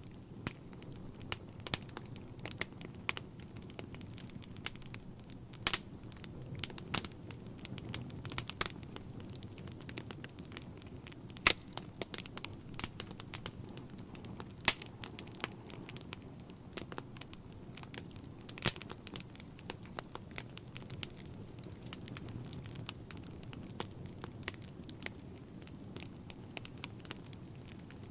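Wood fire crackling and popping, with irregular sharp pops over a low steady rumble of flames; a few pops stand out louder than the rest.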